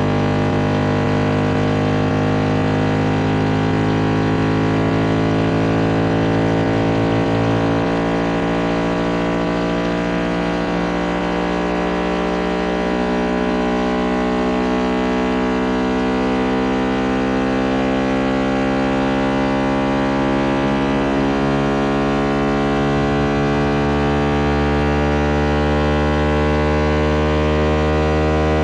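Synthetic speaker-cleaning tones for ejecting water from a phone speaker: a dense cluster of steady low hums with many tones slowly rising in pitch. The lowest tones change at about 8, 13 and 24 seconds in.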